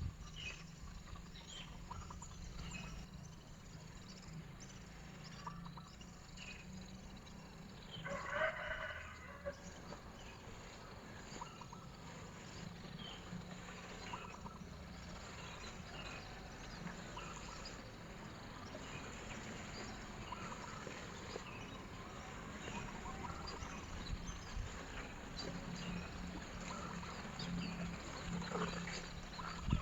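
Rooster crowing once about eight seconds in, over scattered chirps of small birds and a steady low hum.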